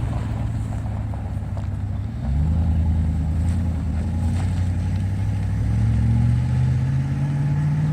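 Diesel locomotive engine running, then throttling up about two seconds in, its pitch climbing slowly as it gets under way for the switching move.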